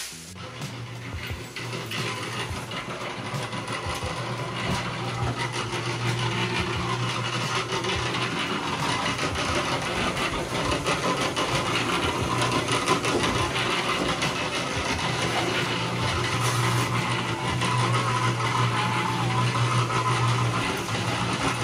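A motor running steadily with a constant hum, growing louder over the first few seconds.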